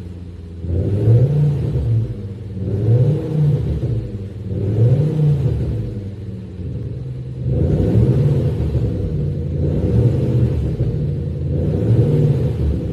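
BMW 520d with an Xhaust electronic active-sound exhaust system, playing a synthesized V8-style exhaust note as the engine is revved in repeated blips, about six, each note rising and falling back over a second or two.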